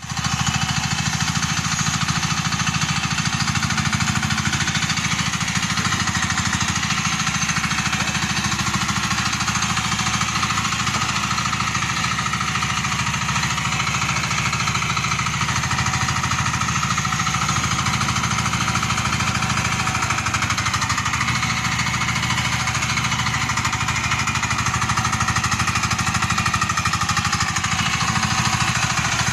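An excavator's engine running steadily with a fast, even pulse, and a fainter whine above it that rises and falls now and then as the machine works.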